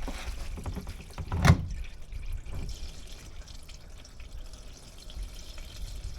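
Warm engine oil, mixed with engine flush, pouring out of a Mini R56's open sump plug hole into a drain pan, with one sharp knock about a second and a half in.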